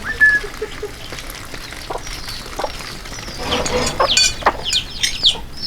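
Chickens calling: a run of short, high, falling chirps that starts about halfway through and repeats several times, with a single short high note right at the start.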